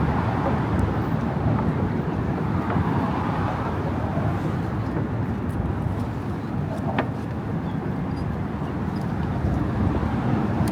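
Steady rush of road traffic, a continuous wash of passing cars, with one brief sharp sound about seven seconds in.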